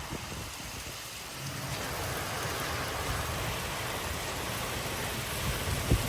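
Heavy wind-driven rain in a strong storm: a steady hiss of rain that grows louder about a second and a half in, over a low rumble, with a brief low thump near the end.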